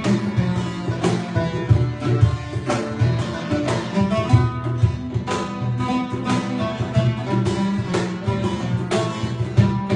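Instrumental passage of a Turkish folk song: plucked oud and acoustic guitar carry the tune over a steady hand-drummed rhythm on cajon and darbuka.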